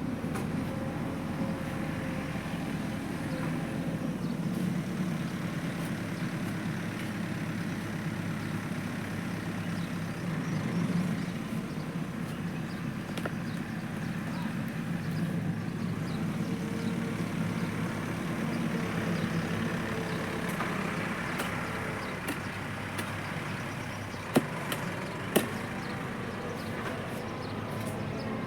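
Tractor engine running steadily with a slightly wavering drone. Two sharp knocks come about a second apart near the end.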